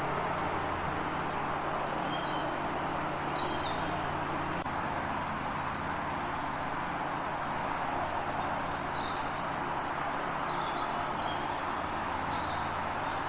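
Small birds chirping in short high phrases several times, over a steady rushing noise with a low hum underneath.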